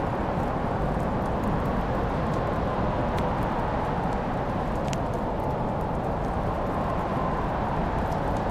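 Fireplace fire burning with a steady low rush and a few sharp crackling pops, the clearest about three and five seconds in.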